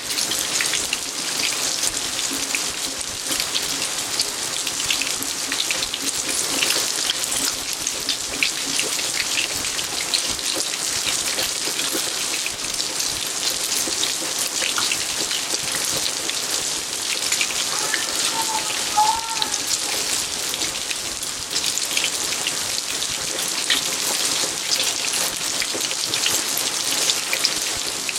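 Steady rain falling in a garden, with many single drops striking close by. A few faint short chirps come about two-thirds of the way in.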